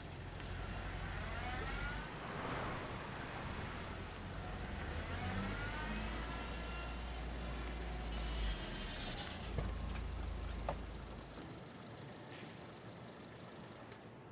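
Road traffic: a steady low engine rumble with vehicles passing by, rising and falling in pitch as they go. The rumble drops away about eleven seconds in.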